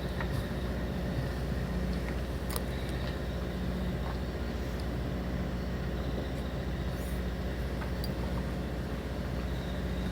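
Fishing boat's engine running steadily, a low hum, with a few faint clicks.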